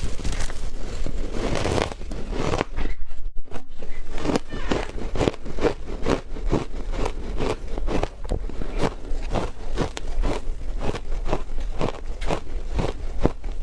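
Close-up crunching of frozen matcha ice being bitten and chewed: a dense crunchy bite at first, then after a short pause a steady chewing rhythm of sharp crunches, about two to three a second.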